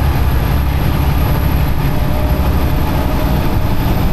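Semi truck's diesel engine running as a steady, loud low drone.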